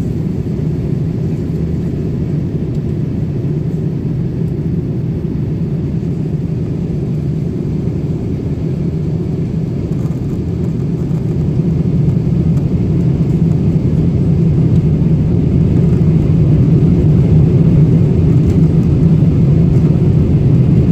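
Steady low rumble of an airliner in flight, heard from inside the aircraft: engine and airflow noise with no distinct events. It grows louder from a little past halfway through.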